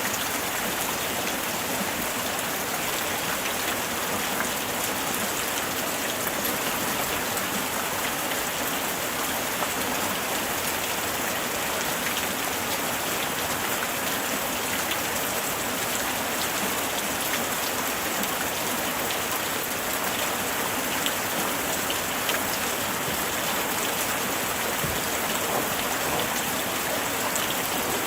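Steady light rain falling and pattering on surfaces, a dense even hiss scattered with small drop ticks.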